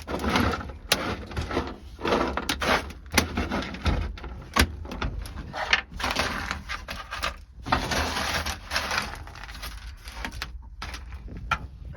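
Frozen, brittle sound-deadening mat being broken and scraped off a car's bare sheet-metal floor: irregular scraping with many sharp clicks and knocks as pieces crack loose.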